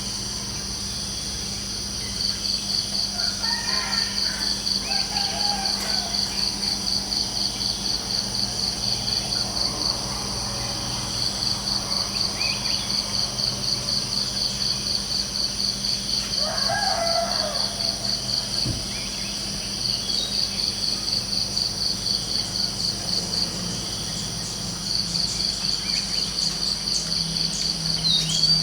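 Crickets chirping in a steady, rapidly pulsing high trill that breaks off and resumes a few times. Distant bird calls come in briefly about four seconds in and again around seventeen seconds.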